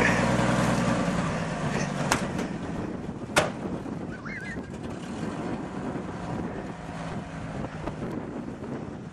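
Old flatbed pickup truck's engine revving as it pulls away, the sound falling off over the first few seconds, with two sharp clicks about two and three and a half seconds in.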